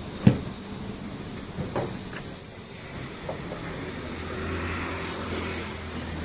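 A single loud thump, then a few lighter knocks, from a refrigerator being handled and moved, over a low steady hum that grows louder about four seconds in.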